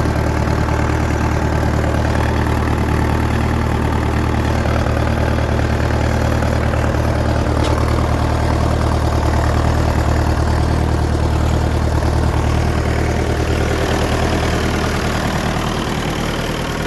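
1959 Fordson Power Major tractor's four-cylinder engine idling steadily just after a cold start, easing a little quieter near the end.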